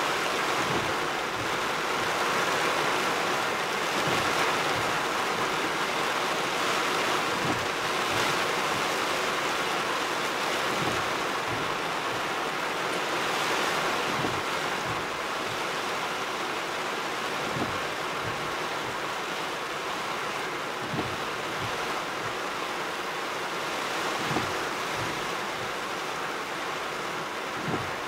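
Heavy rain drumming on a truck's roof and windshield, heard from inside the cab as a steady hiss, with a soft knock about every three to four seconds.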